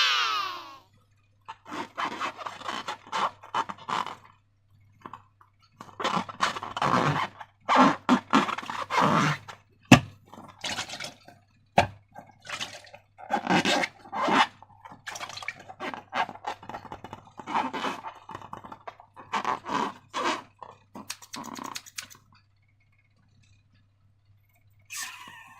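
Slime being squished and worked by hand with balloons: irregular sticky squelches and crackles, with one sharp click about ten seconds in. After a short pause, a rubbery squeak comes near the end.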